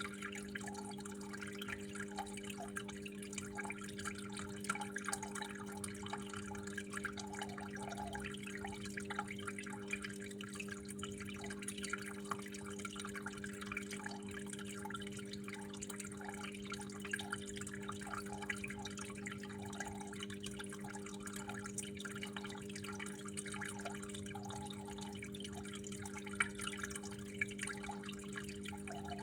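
Water running and dripping, with many small irregular drips and plops over a steady low hum.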